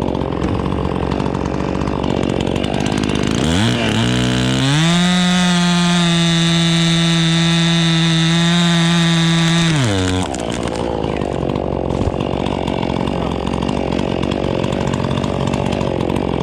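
Two-stroke chainsaw revved from idle up to full throttle about three and a half seconds in. It holds a steady high pitch for about five and a half seconds, then drops back down, over a steady engine drone.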